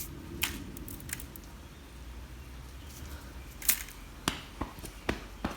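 Scattered sharp clicks and taps, roughly one or two a second and irregular, the loudest a little past halfway, over a low steady hum.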